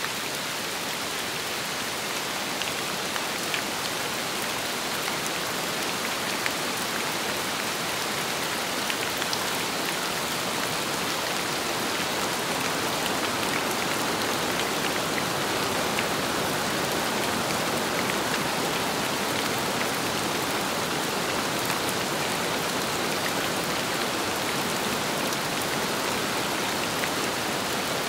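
Steady rain falling on a surface, with scattered individual drops ticking; it swells slightly about halfway through.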